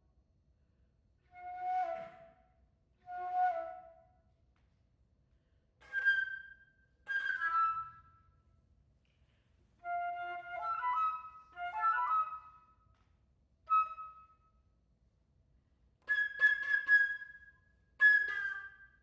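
Solo flute playing short, separate phrases broken by rests, mostly in a high register. Several phrases start with a sharp, noisy, breathy attack.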